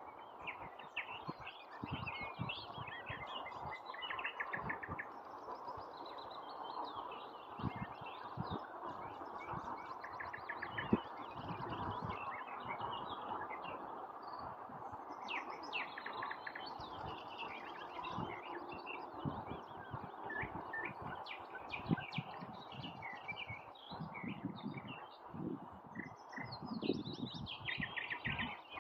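Nightingale singing: a long run of varied phrases of rapid trills and short whistled notes, with brief pauses between them, over a steady background noise.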